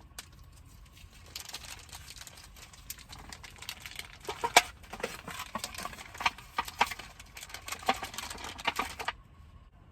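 Rustling with quick sharp clicks and taps as food packaging and cookware are handled while preparing a packaged pot-udon meal. The handling is busiest from about four to nine seconds in and stops abruptly near the end.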